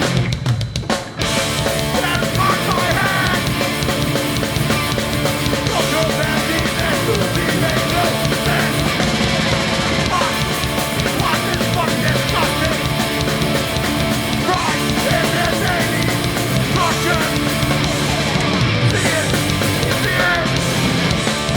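Live hardcore punk band playing loud, with distorted guitars, bass and drums; the band drops out for an instant about a second in, then crashes back in at full volume.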